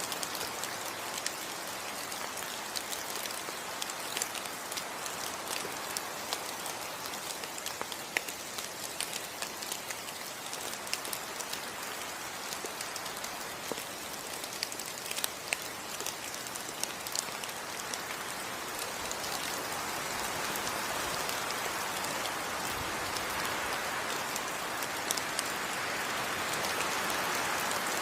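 Steady rain falling in a tropical rainforest, with many close drops ticking sharply through the even hiss. It swells slightly louder over the last third.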